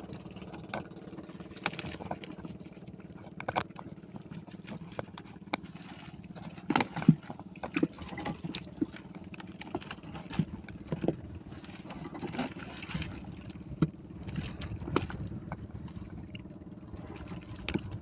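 Irregular knocks and clatter in a small fishing boat as a net with fish is worked, over a steady low motor hum.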